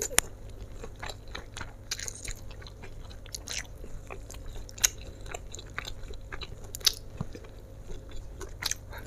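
Close-miked chewing and biting as a person eats a large plate of fried kwetiau, flat rice noodles with shrimp, meatballs and chicken. Short mouth sounds run throughout, with a few sharp crunches or clicks standing out.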